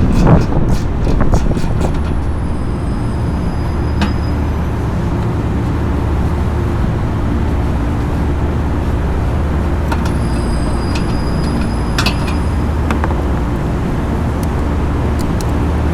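Steady low mechanical hum of running machinery, with sharp metallic clicks and clinks: a quick cluster in the first second and a half, then single ones about 4 seconds in and between 10 and 12 seconds, some with a brief high ring.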